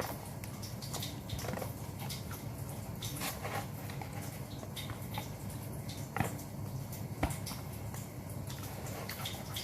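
Close-miked eating sounds: chewing grilled chicken, with scattered wet smacks and small clicks of mouth and teeth, over a low steady hum.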